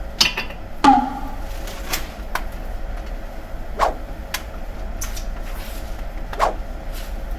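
Metal pipe-fitting parts being handled: about seven sharp clanks and clicks, the two near the start ringing briefly, over a steady low hum.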